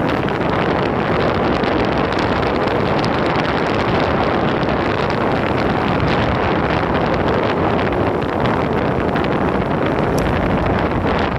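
Loud, steady wind noise buffeting a phone's microphone while riding an electric skateboard at cruising speed.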